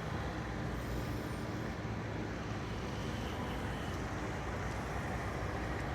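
Steady low rumble of a motor vehicle running, like engine and road noise.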